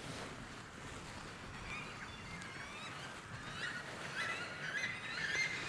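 Weka calling: a run of short, shrill, repeated whistles, mostly rising in pitch, that grow louder from about halfway through.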